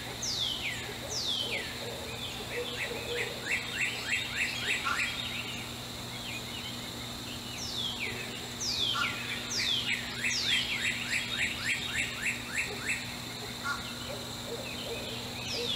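Songbirds singing: a phrase of down-slurred whistles runs into a quick series of short notes, and the phrase comes twice, about eight seconds apart. A faint steady hum lies underneath.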